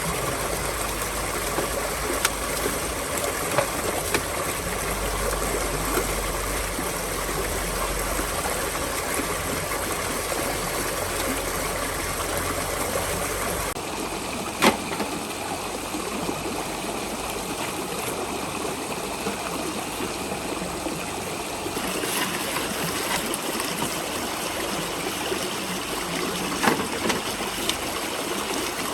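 Steady rush of running water like a flowing stream, with a few sharp knocks; its character changes abruptly about 14 and 22 seconds in.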